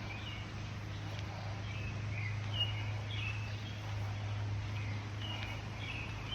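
Birds chirping in short, repeated calls over a steady low hum.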